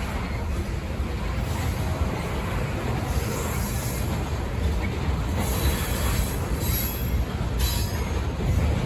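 Freight train cars rolling past on the rails: a steady low rumble, with a few short high squeals from the wheels.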